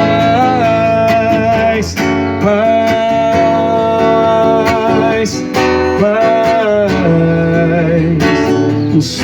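Music: a strummed acoustic guitar with a voice holding long wordless notes that bend slightly in pitch.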